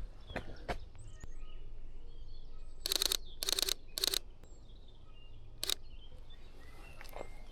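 Sony A6700 camera shutter firing in three quick bursts of rapid clicks about three to four seconds in, then one short burst near six seconds. Faint bird chirps come in between.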